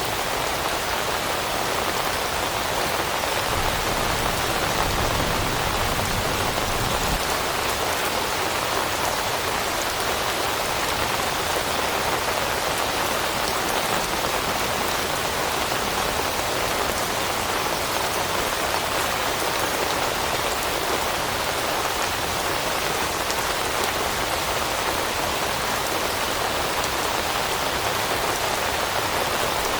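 Steady rain pattering on forest leaves, an even hiss throughout. A brief low rumble sits underneath it about four to seven seconds in.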